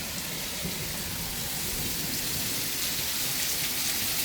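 Very heavy rain pouring down in a storm: a steady, dense hiss with scattered drops splashing.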